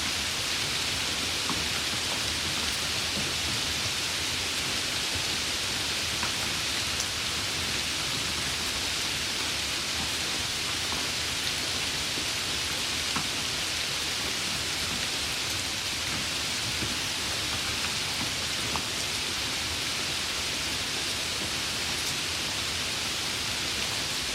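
Steady rain, an even hiss of falling drops with a few separate drops ticking now and then.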